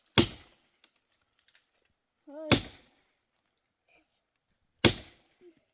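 Axe chopping firewood: three sharp strikes about two and a half seconds apart, with a brief voice just before the second strike.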